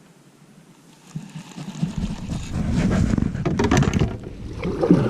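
Wind buffeting the microphone, starting suddenly about two seconds in as a loud low rumble, with scattered knocks and rustles of handling over it.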